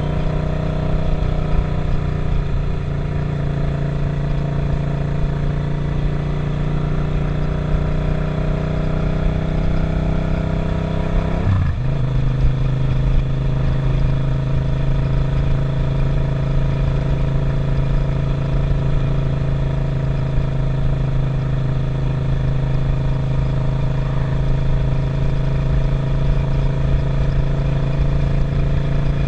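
Suzuki SV650's 90-degree V-twin engine running steadily under way, heard from the rider's seat, with a brief gear change about eleven seconds in after which it settles back into a steady cruise.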